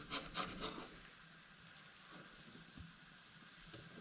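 Faint sizzling of food frying in a pan, with a few light clicks in the first second.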